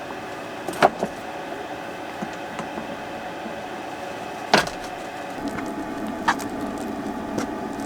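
A few sharp knocks and clicks, like a utensil striking a mixing bowl while bread dough is mixed, over a steady hum. The loudest knocks come about a second in and again a little past halfway.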